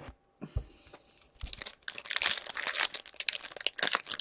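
Plastic foil wrapper of a hockey card pack crinkling and tearing as it is ripped open, starting about a second and a half in after a couple of faint clicks.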